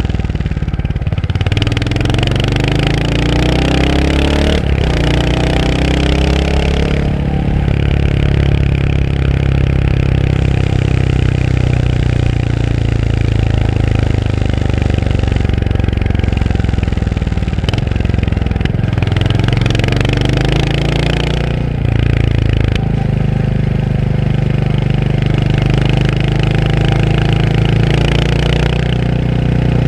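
Royal Enfield Hunter 350's single-cylinder engine on the move, revving up through the gears. The pitch climbs, drops at a shift about four seconds in and climbs again, holds fairly steady for a stretch, then rises again through more shifts around twenty seconds in.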